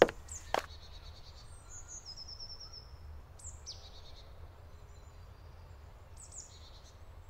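Small songbirds singing and calling in woodland, with short high trills and chirps over a low steady rumble. Two sharp thuds like footsteps sound in the first second.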